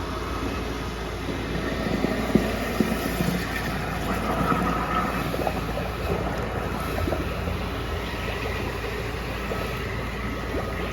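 Engine-driven high-pressure washer running steadily while jetting a drain pipe, with a couple of brief knocks a little over two seconds in.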